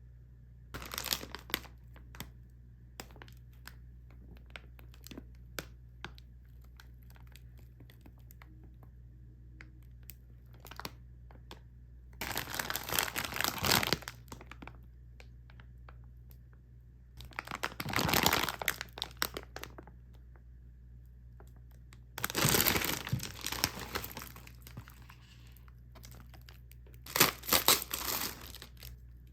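Plastic packaging of a frozen meal crinkling and being torn open, in several bursts of a second or two, with small clicks and taps between them.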